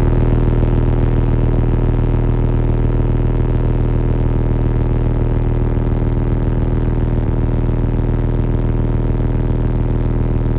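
Car audio competition system playing a sustained low bass drone through its subwoofers, heard loud from inside the car. The tone holds steady and unbroken with deep bass and overtones above it.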